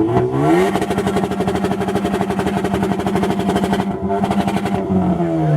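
Car engine revved up and held at a two-step launch-control rev limit, its exhaust popping rapidly and evenly at a steady pitch. The revs climb at the start and fall away near the end.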